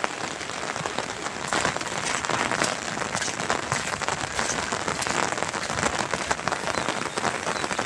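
Steady rain falling, a dense hiss of countless small drop hits, growing a little louder and brighter about a second and a half in.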